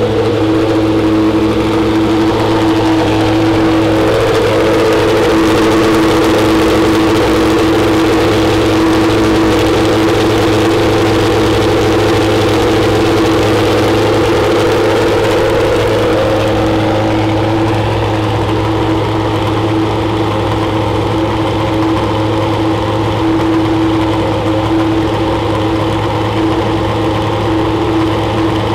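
Jaguar XJR-14's 3.5-litre Ford-Cosworth HB V8 running at a steady idle, loud and even with no revs.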